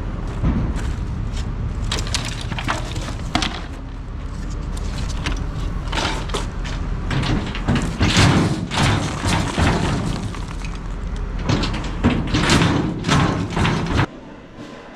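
Debris being unloaded at a dump: repeated crashes, clatter and thuds over a steady low rumble, with the loudest bunch in the middle and near the end. It all stops abruptly about a second before the end.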